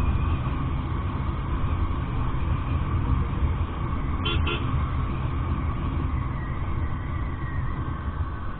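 Royal Enfield Interceptor 650's parallel-twin engine running on the move, under steady road and wind noise. A horn gives two short beeps in quick succession a little past the middle.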